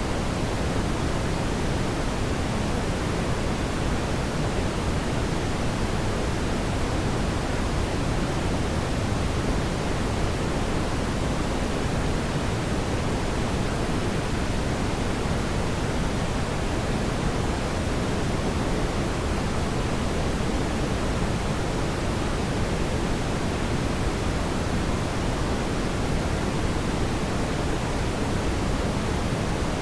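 Steady, even rushing noise like pink noise, unchanging throughout, with no crackles or pops.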